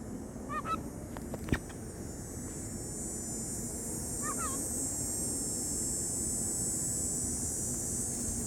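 Cicadas buzzing in a steady high drone that swells louder a few seconds in. A bird gives two short chirps, one near the start and one about halfway, and there is a single sharp click at about a second and a half.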